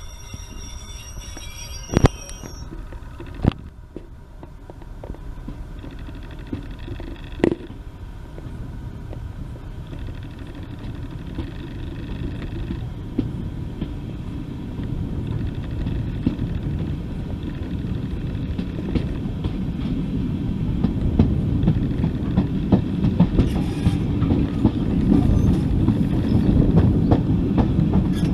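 A train drawing closer, its low rumble growing steadily louder, with a few sharp knocks in the first eight seconds.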